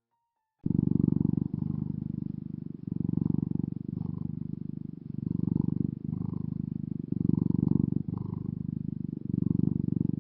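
A house cat purring, starting about half a second in. The purr swells and eases in a slow cycle of roughly two seconds, following the cat's breathing.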